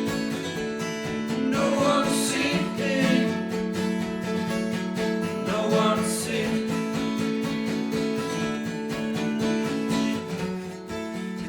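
Acoustic guitar strummed in an unplugged indie rock song, an instrumental passage between sung lines.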